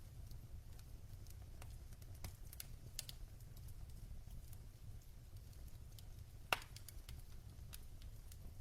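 Logs burning in a fireplace: scattered crackles and small pops over a low steady rumble, with one louder pop about six and a half seconds in.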